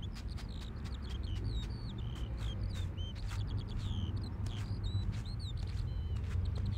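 Small birds chirping busily: many short, high chirps that bend in pitch, over a steady low rumble with scattered light clicks.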